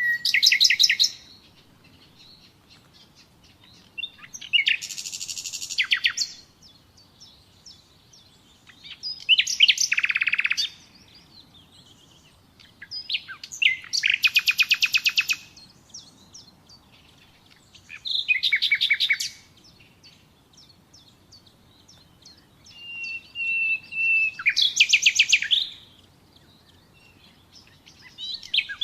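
Common nightingale singing: a series of short, varied phrases of fast repeated notes and trills, each one to two seconds long and separated by pauses of a few seconds. Near the end, a held whistled note leads into a rapid trill.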